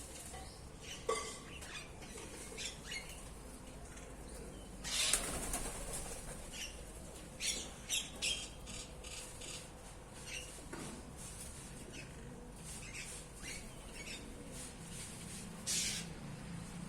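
Birds making short, scattered chirps and squawks, with wings flapping. Louder bursts of noise come about five seconds in and again near the end.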